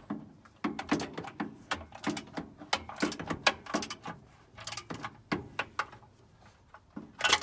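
Irregular metallic clicks and knocks of hand tools and bolts being worked on the engine-to-transmission joint, left loose so the torque converter can still be lined up. The clicks fall several to a second, ease off for a moment, and then come as a sharp, louder cluster at the end.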